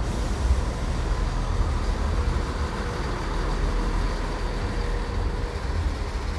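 A train running past, a steady low rumble with a faint whine through most of it.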